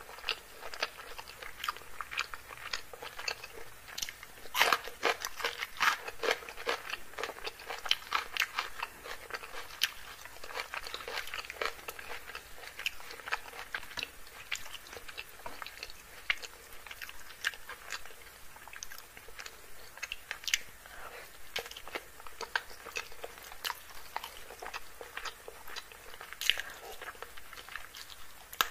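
Close-miked mouth sounds of eating chicken curry and rice by hand: chewing, biting and lip smacks in irregular clicks, with fingers tearing the curried chicken apart.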